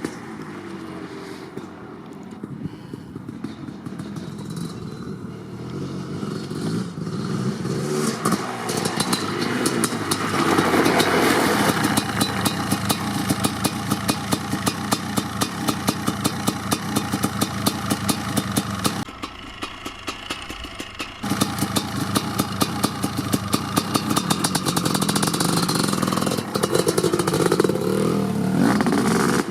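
Kawasaki KX500 500cc single-cylinder two-stroke engine with an FMF Gnarly exhaust pipe running. It grows louder over the first ten seconds, falls off briefly about twenty seconds in, and revs near the end.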